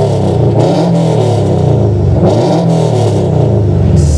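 Subaru WRX STI's turbocharged flat-four engine being revved repeatedly with the car standing still, loud, its pitch rising and falling with each blip of the throttle. Heard from inside the car's cabin.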